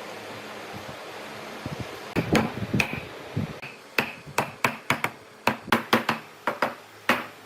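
Hammer blows, a few irregular knocks and then a quick steady run of sharp strikes, about four a second, each with a short metallic ring.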